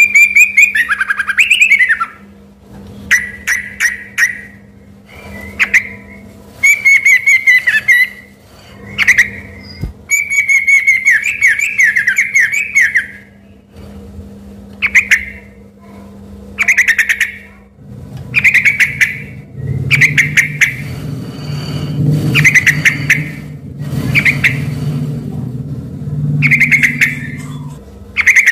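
Yellow-vented bulbul (trucukan) singing hard: loud, short whistled phrases every second or two, some with quick trills, in a song laced with white-rumped shama (murai batu) phrases. A low hum runs under the song over the second half.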